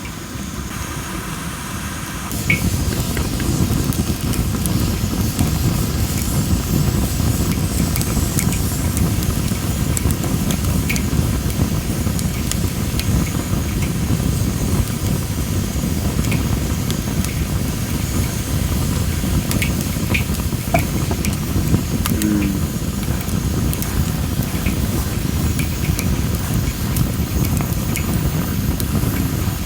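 Well-dried Japanese spindle (masaki) firewood burning, giving scattered sharp crackles and pops over a loud, steady low rumble that sets in about two and a half seconds in.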